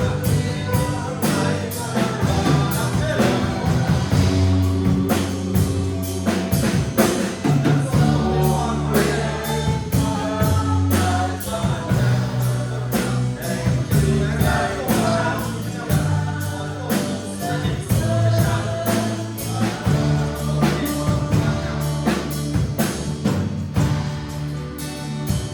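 A church worship band playing a song: voices singing a melody over a steady drum beat and low bass notes.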